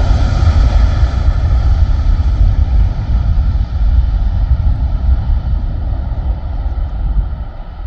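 Aircraft engine noise fading as the plane moves away: a heavy rumble whose high end dies off steadily.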